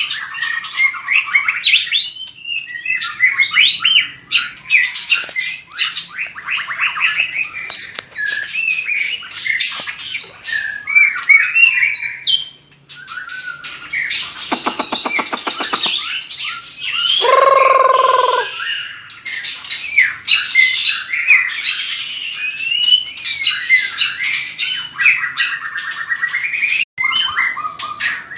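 White-rumped shama singing a long, varied song of fast whistles, trills and chatter, with a rapid buzzy rattle and then a harsher, lower call about halfway through.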